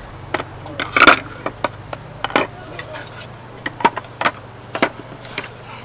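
A series of about a dozen sharp, irregular clicks and knocks of hard objects being handled, the loudest about a second in, over a steady low hum.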